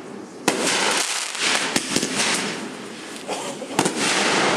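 Fireworks going off: sharp bangs about half a second in, around the middle and a close double crack near the end, over continuous crackling.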